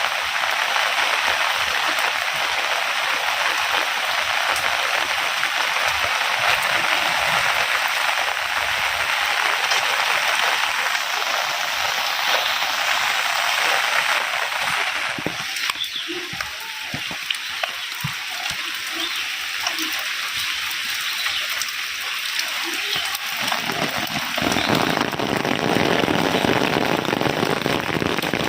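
Heavy rain falling steadily, a dense hiss. It eases a little about halfway through and grows heavier again near the end.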